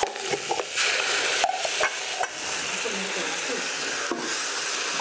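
Green ground masala paste frying in hot ghee in a steel kadai, a steady sizzle that grows stronger about a second in as the paste lands. Several sharp clinks of a perforated steel ladle scraping the paste out of a steel cup and against the pan.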